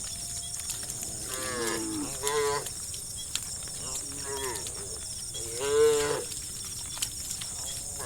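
Cows mooing, about four calls one after another, the loudest a little past the middle.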